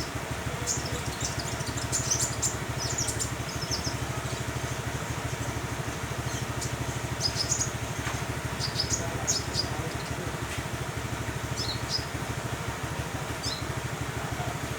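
A young sunbird practising its song: short, high, thin chirps and twitters in scattered clusters, thickest in the first few seconds and again around seven to nine seconds in. A steady low motor hum with an even throb runs underneath and is louder than the bird.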